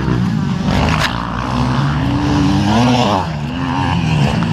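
Motocross dirt bike engines running on the track, their pitch rising and falling as the riders rev and ease off.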